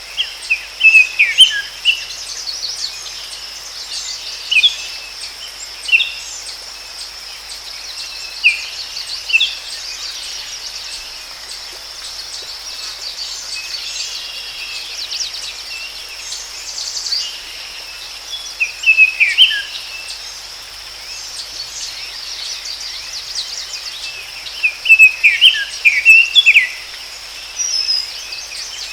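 Forest ambience: songbirds singing in short bursts of chirps and trills over a steady, high insect drone and a faint hiss.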